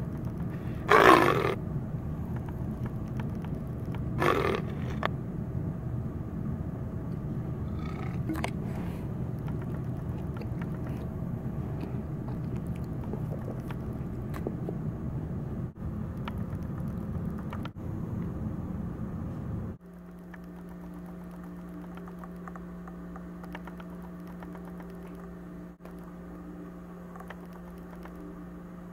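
Domestic cat giving big, loud meows right at the microphone: two about one and four seconds in, the first the loudest, and a fainter one at about eight seconds. A steady low rumble runs underneath and gives way after about twenty seconds to a steady hum.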